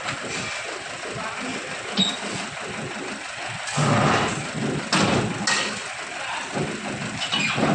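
Tractor engine running, with a few clanks and a louder noisy stretch in the middle.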